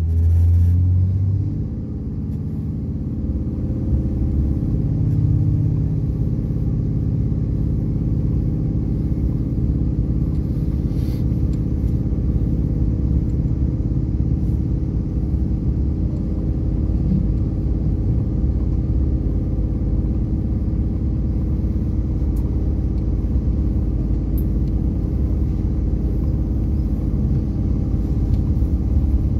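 Bombardier AGC railcar under way, heard from inside the carriage: a heavy low rumble for about the first second, then a steady running drone with a constant hum.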